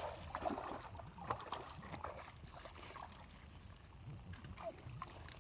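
Faint water splashing and sloshing in a river, with scattered small clicks and knocks.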